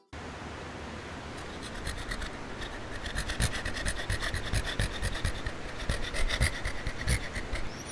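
Puppies chewing close up: a rustling, rasping noise with many irregular clicks, getting busier about two seconds in.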